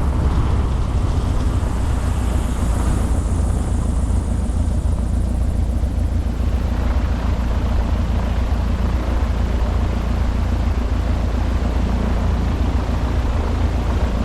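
Modified Cessna 170B's piston engine and propeller running steadily at low power, a loud even drone with a deep, steady engine note.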